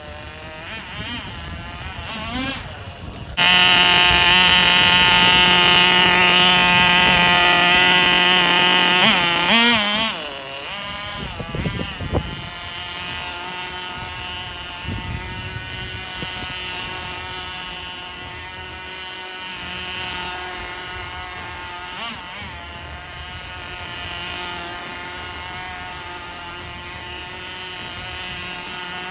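Nitro RC car's small two-stroke glow engine running with a high buzzing drone. It revs up sharply about three seconds in and is held at high speed for about six seconds, wavering in pitch near the end of the burst, then drops back to a steady idle.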